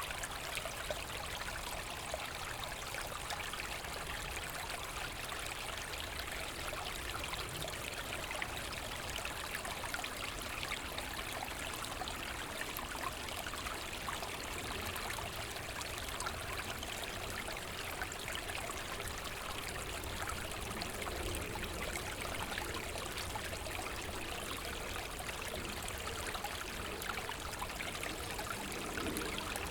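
Forest brook flowing steadily over stones, a continuous rushing and babbling of water with fine trickling splashes.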